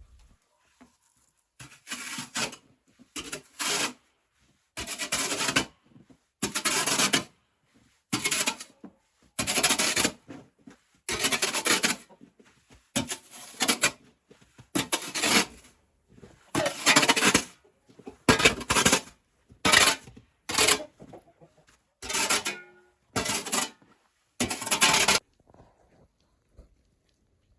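Snow being cleared by hand: a tool scraping through snow in about twenty short, rough strokes, roughly one a second, stopping a couple of seconds before the end.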